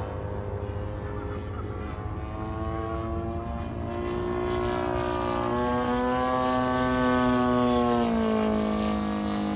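Small engine of a radio-controlled model running steadily. Its pitch climbs about four seconds in and gets louder, then drops about eight seconds in as it passes.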